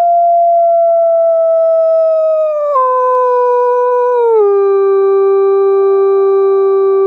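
A single long canine howl, held on one steady pitch and then dropping in two steps, about three and four and a half seconds in, to a lower held note.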